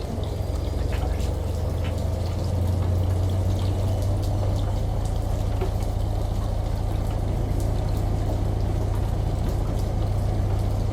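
Steady rush of running, pouring water over a low, even hum, with scattered light ticks of drops; it swells slightly a couple of seconds in.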